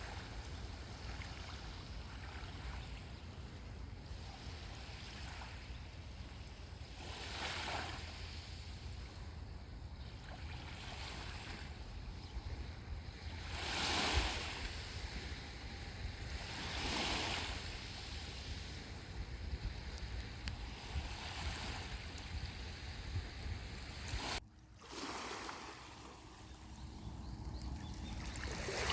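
Sea waves breaking on a sandy beach, the surf swelling up every few seconds, over a steady low wind rumble on the microphone.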